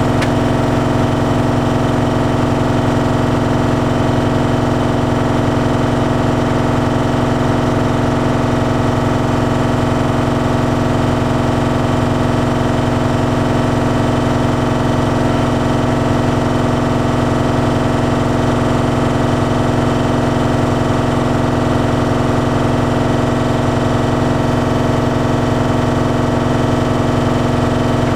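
Bosch Series 6 heat pump tumble dryer running mid-cycle: a steady, unchanging machine hum with several constant tones from its compressor, fan and drum motor.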